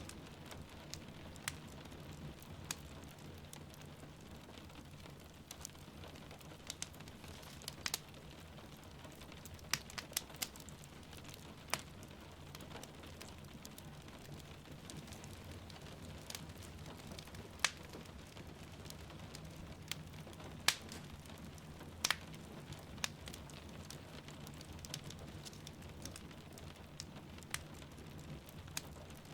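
Wood fire crackling with irregular sharp pops, over a steady soft hiss of rain falling outside.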